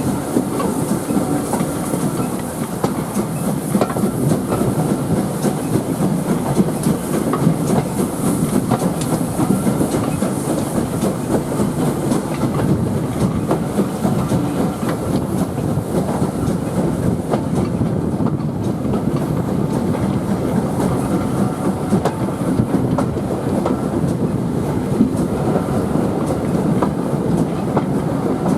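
A steam-hauled heritage train running along the line, heard from aboard: a steady rumble of carriage wheels on the rails, with many sharp clicks throughout.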